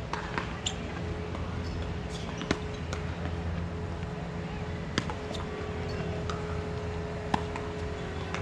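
Scattered sharp knocks, about five, a second or more apart, over a steady low hum.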